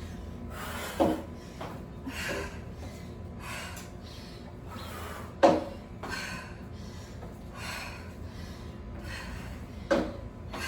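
Heavy, fast breathing from a person exercising hard, with a sharp thump about every four and a half seconds, three in all, as feet land during step-up, jump-up and reverse-lunge reps on a plyo box.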